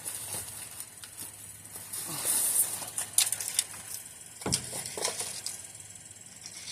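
Rummaging in a dumpster with a grabber tool: rustling and crinkling of trash and packaging with scattered clicks and knocks, and one louder thump about four and a half seconds in.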